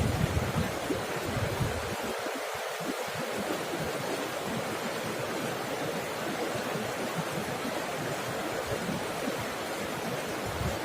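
Water rushing and splashing steadily down a waterfall, a continuous even rush. A few low rumbling buffets come in the first second or so.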